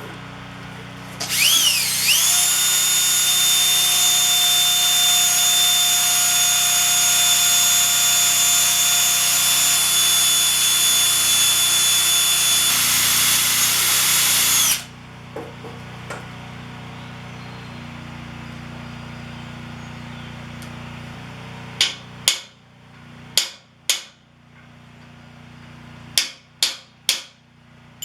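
A handheld power tool spins up about a second in and runs with a steady high-pitched whine for about thirteen seconds, then stops. A lower hum carries on, and in the last six seconds come about eight sharp, ringing taps in quick pairs.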